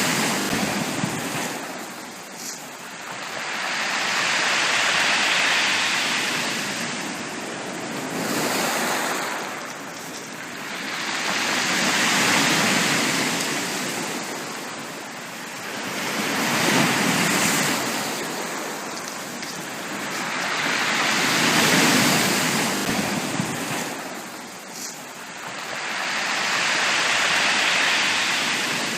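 Sea waves breaking on a beach, swelling and fading in a slow rhythm of one wave about every four to five seconds.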